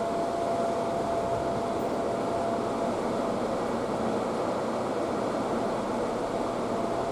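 Steady hum and hiss of a stationary electric commuter train waiting at the platform, its air-conditioning and auxiliary equipment running, with a faint constant high tone over it.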